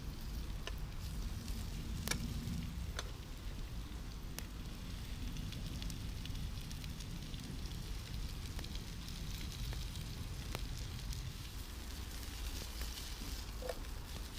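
Wood campfire crackling with scattered sharp pops over a steady sizzle of food cooking on it, with a low rumble underneath.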